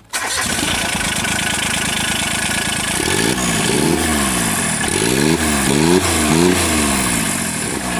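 John Deere Gator utility vehicle's diesel engine running hard under a loud rushing noise, then revved up and down again and again from about three seconds in.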